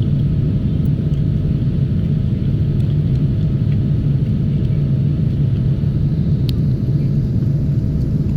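Steady low rumble of a jet airliner's engines and airflow, unchanging throughout, with a faint click about six and a half seconds in.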